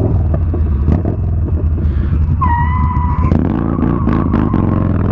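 Yamaha Bolt's air-cooled V-twin engine running at low speed through a tight U-turn. A brief high-pitched squeal comes in about two and a half seconds in, then fades to a fainter whine under the engine.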